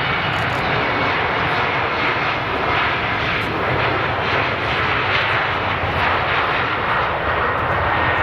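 Embraer 195's two GE CF34-10E turbofan engines at takeoff power: a loud, steady jet rush with a faint high whine running through it.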